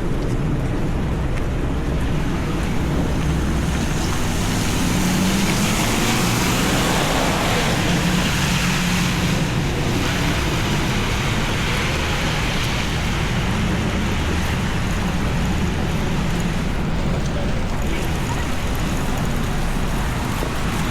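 Steady heavy rain on a city street with traffic. A vehicle passes in the middle, its engine hum and tyre hiss on the wet road swelling and then fading.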